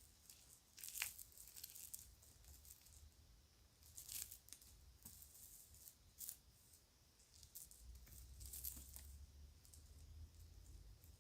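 Kids' jewelry and its bag handled: faint clicks and rattles in scattered clusters, with louder rustling bursts about a second in and about four seconds in.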